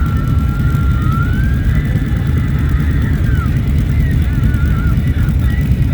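Loud, steady rumble of motorcycles and road traffic, with a faint siren gliding up and down over it and warbling about four seconds in.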